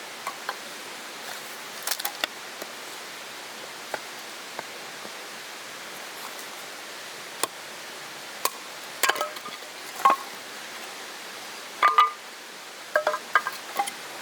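Scattered light clinks and taps of small hard items being handled, busier in the second half, a few ringing briefly. Under them runs the steady rush of a mountain stream.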